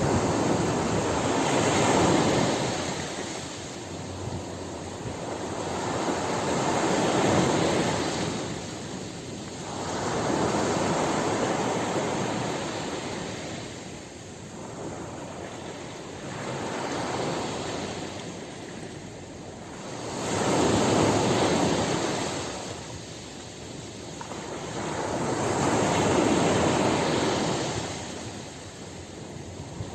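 Ocean surf: waves breaking and washing up a shore. They come in about six slow surges, each building to a rush and then fading before the next.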